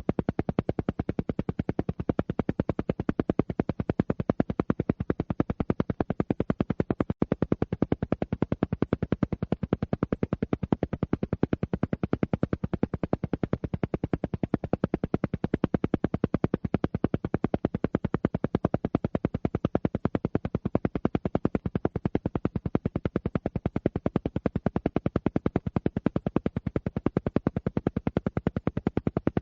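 Alpha-wave brainwave-entrainment sound: a low tone chopped into a fast, even train of pulses, repeating without change.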